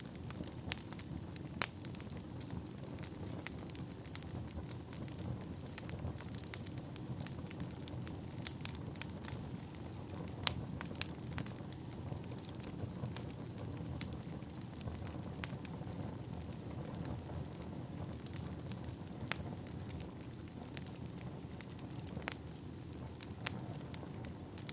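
Wood fire burning: a steady low rumble of flames with irregular crackles and sharp pops of splitting firewood, one louder snap about ten seconds in.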